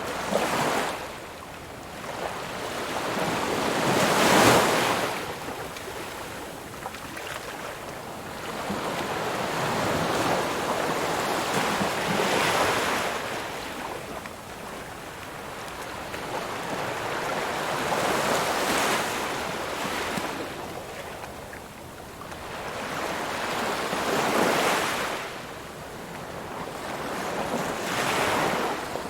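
Ocean waves breaking on a shore: a constant wash of surf that swells into a loud crash about every six to eight seconds, six times, then draws back.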